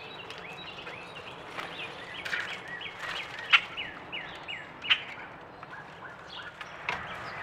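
Birds chirping outdoors: a quick run of short, falling chirps, thinning out toward the end, with three sharp taps.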